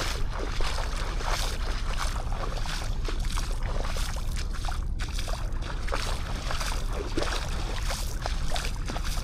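Small sea waves lapping and washing on a sandy beach, with irregular splashes and fizzing over a steady low rumble.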